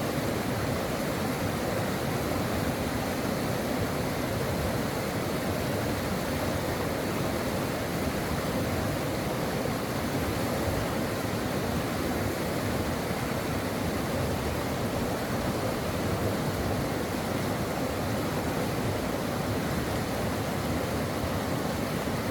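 Stream water flowing in a steady, even rush with no changes.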